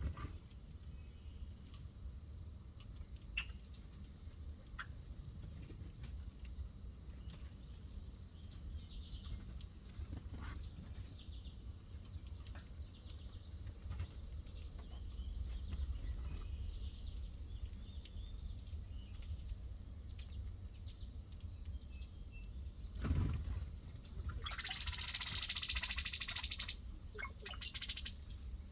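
Backyard birdsong: scattered short bird chirps over a steady, high, buzzing insect chorus. A low thump comes a little over twenty seconds in. Shortly after, a loud, harsh burst of bird calls lasts about two seconds, followed by one more short burst near the end.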